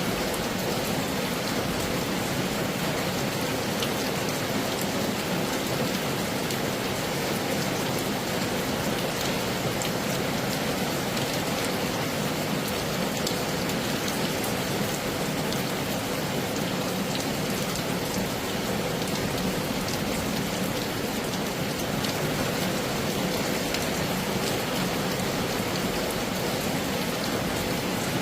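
Heavy rain falling steadily: a dense, even hiss with many sharp ticks of individual drops striking a surface.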